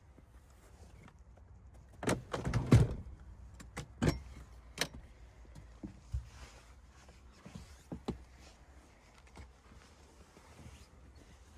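A burst of sharp clicks and thumps about two seconds in, loudest near three seconds, followed by scattered single clicks and knocks over a faint low rumble.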